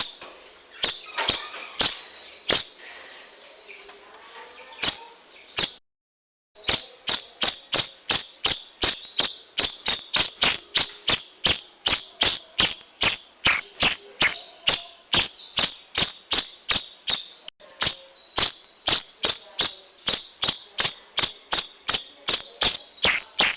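A songbird giving loud, sharp chirps over and over, evenly spaced at about three a second, cut off briefly by a dead gap about six seconds in.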